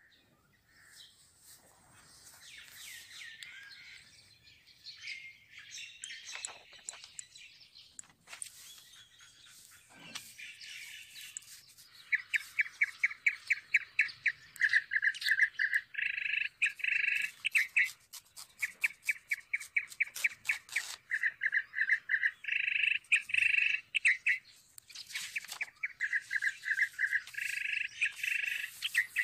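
Birds chirping: scattered high chirps at first, then from about twelve seconds in, loud, fast trills of short repeated notes in phrases of a second or two, over and over.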